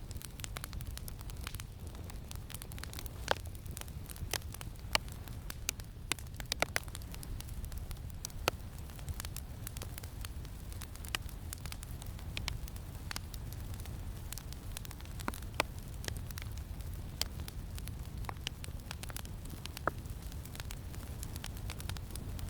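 Campfire crackling, with irregular sharp pops scattered throughout over a steady low rumble of wind.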